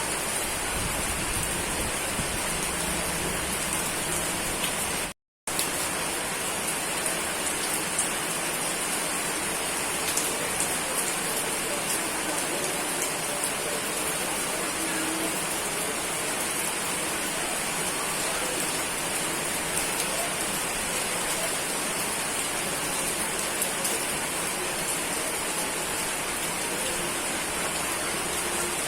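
Steady rain falling, an even hiss with fine pattering of drops. About five seconds in, the sound cuts out completely for a split second, then resumes.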